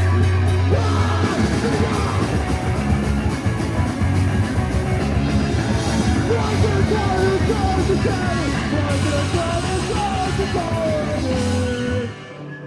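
Live rock band playing loud, with guitar, bass, drums and yelled vocals; the music stops abruptly near the end.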